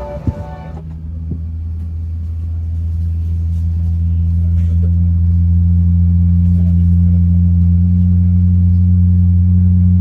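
Steady low hum inside an Airbus A380 cabin at the gate, growing louder over the first few seconds and then holding level, with one sharp click shortly after it begins.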